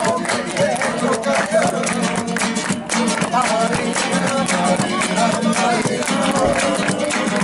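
Acoustic guitar strummed in a flamenco style, with voices singing over it.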